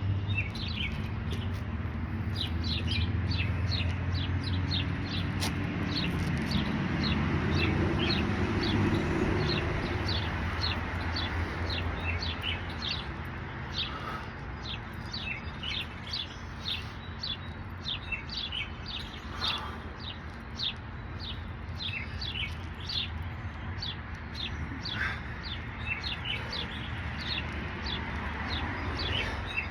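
Bird chirping repeatedly, short high chirps at about two or three a second, over a low steady hum that fades in the first half.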